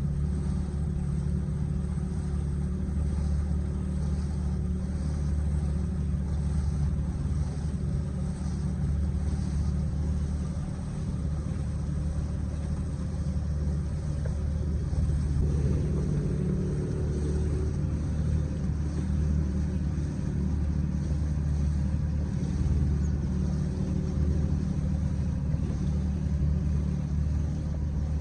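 An engine running steadily with a low drone that holds an even pitch.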